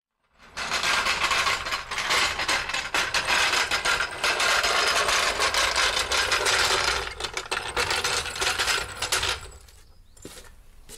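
Loud mechanical rattling and clattering, a dense run of rapid clicks that starts abruptly and stops after about nine seconds.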